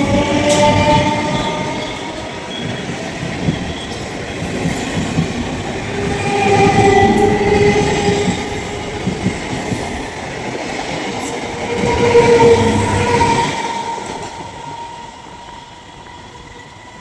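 Electric multiple-unit local train running on the rails, with a continuous rumble and held squealing tones that come and go, loudest about halfway through and again around two-thirds of the way in. The train fades away near the end.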